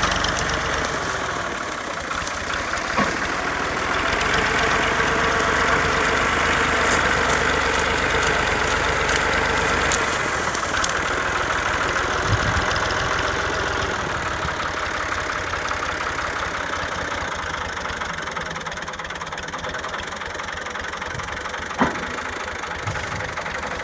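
Fiat tractor's diesel engine running steadily, with a single sharp click about 22 seconds in.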